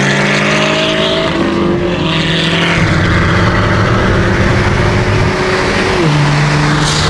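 Car engine accelerating hard at the start of a street race: its note climbs, drops at a gear change about a second in, climbs again and drops at another upshift about six seconds in, with heavy wind and road noise throughout.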